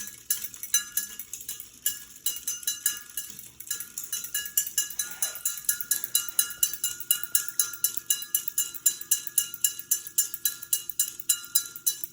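Westinghouse Xavier ceiling fan running, with a ringing metallic tick that repeats evenly and speeds up from about three to about five ticks a second. A faint steady hum joins about halfway through.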